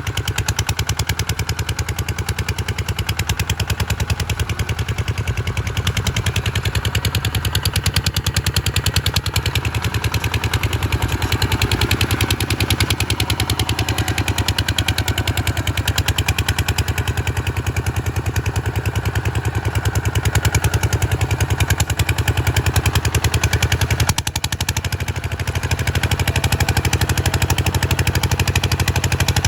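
Kubota RT140 single-cylinder diesel engine running steadily, a fast, even chugging of sharp exhaust beats. It drops off briefly about two-thirds of the way through, then picks back up.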